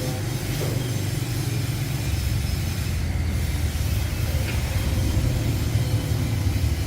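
A machine running with a steady low rumble that grows a little louder about two seconds in.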